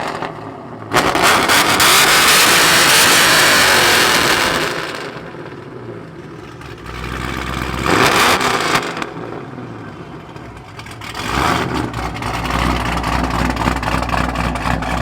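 Loud car engine and exhaust at a car meet, surging hard for a few seconds, easing off, surging briefly again, then settling into a steady low rumble like an idle.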